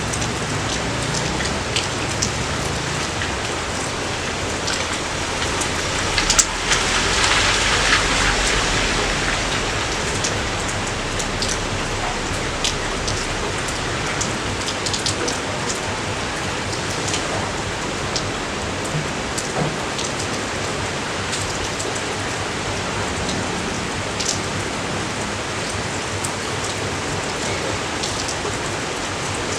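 Steady rain falling, with many separate drops ticking close by; the rain briefly swells louder about six seconds in.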